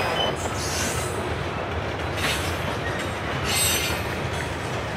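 Covered hopper cars of a long CSX freight train rolling past, a steady rumble of steel wheels on rail, with a few brief high screeches from the wheels.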